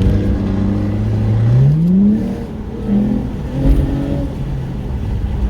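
2016 Ford Mustang GT's 5.0 V8 accelerating through a straight-piped exhaust with X-pipe and resonator delete. The engine note holds, climbs in pitch about two seconds in, drops away as the revs fall, then picks up again.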